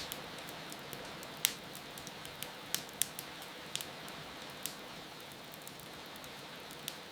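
Wood fire crackling, with sharp irregular pops over a steady hiss of rain.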